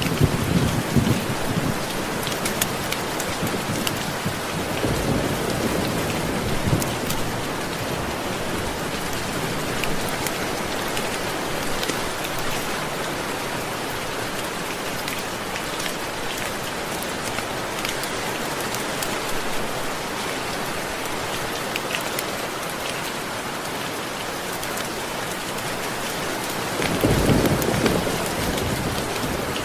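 Steady heavy rainfall, with low rolls of thunder at the start, again about five seconds in, and a louder rumble near the end.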